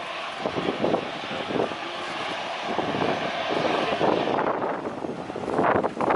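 Lion Air Boeing 737-900ER's CFM56-7B jet engines running, a steady loud rush of jet noise. Wind buffets the microphone near the end.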